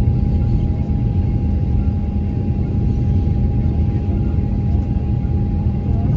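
Steady cabin noise inside a Boeing 737-800: a deep, even rumble of engines and airflow with a constant hum running through it.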